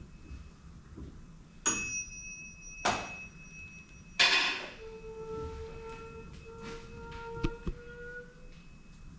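Metal percussion struck three times, each strike ringing on in clear tones, followed by a held ringing tone with overtones that fades out near the end.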